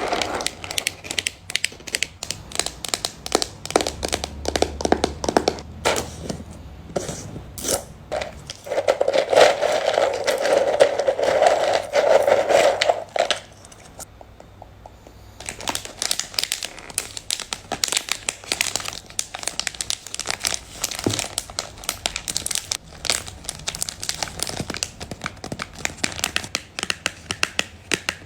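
Freshly manicured fingernails tapping and scratching on cans, a fast, irregular run of clicks. About nine seconds in it thickens into a louder, denser scratching for a few seconds, then drops to a brief lull before the tapping resumes.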